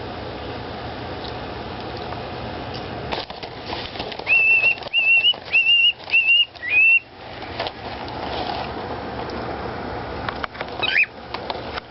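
A run of five short whistled notes at the same pitch, each slightly rising, over a steady background hiss; a single brief whistled glide follows near the end.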